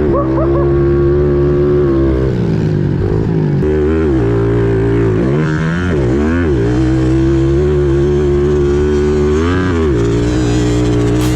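Pit bike engine running at high revs. The pitch drops and climbs back several times as the throttle is rolled off and on: about two seconds in, around four, again between five and six and a half seconds, and near ten seconds.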